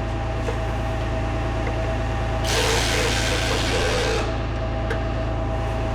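A power tool runs for just under two seconds, a little after the middle, driving the new exhaust manifold bolts down in sequence. A steady low hum runs underneath throughout.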